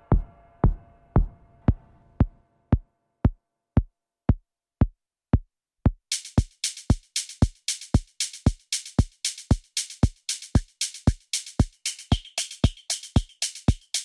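Ambient techno from a drum machine and synthesizer. A four-on-the-floor kick drum hits about twice a second, under a held synth chord that fades out over the first two seconds and leaves the kick alone. About six seconds in, a bright hi-hat comes in on the off-beats between the kicks.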